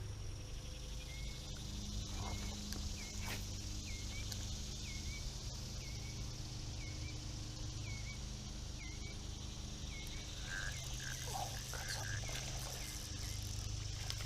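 A small animal's short chirping call, repeated steadily about every three-quarters of a second, over a steady high hiss and a low rumble of outdoor background.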